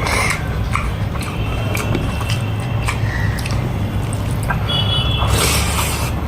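A person chewing food close to the microphone, with many short wet mouth clicks and smacks over a steady low hum. A louder hiss-like burst of noise comes about five and a half seconds in.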